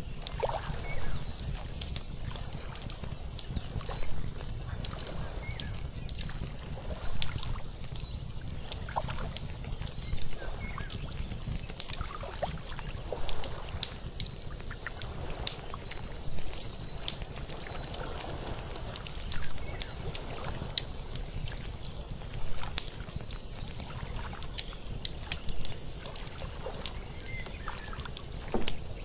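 Layered lakeside ambience: water lapping in a slow swell about every three seconds, over an outdoor fire crackling with many sharp pops and a steady low rumble underneath.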